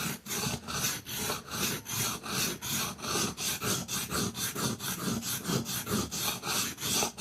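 Steel knife blade being stroked back and forth on a wet whetstone, quick even scraping strokes at about four a second.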